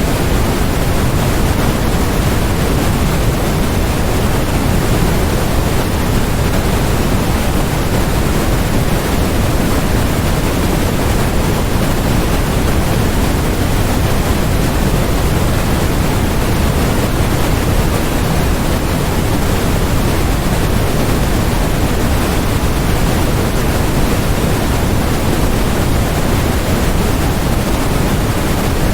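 Steady generated noise: an even, unchanging hiss, fuller in the low end than in the highs.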